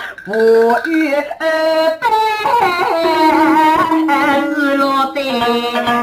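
A voice singing Wenzhou guci (Wenzhou drum-song), drawing out long sustained notes that bend in pitch, with no clear words.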